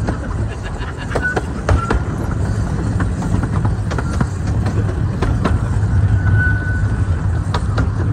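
A miniature railway train running, heard as a steady low rumble with scattered clicks and a few brief high squeals.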